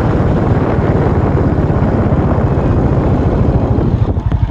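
Suzuki cruiser motorcycle running at riding speed, with a low pulsing engine note under a steady rush of wind noise. The sound eases slightly near the end.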